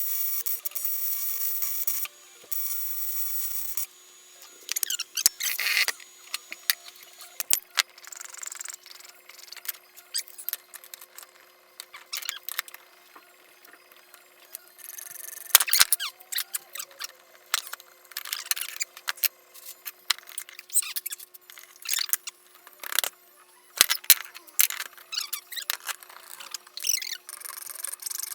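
Short, irregular scraping strokes of hand work on an aluminium casting, metal rubbing on metal with squeaks. In the first four seconds a steady buzzing tone, rich in overtones, sounds in two spells and stops.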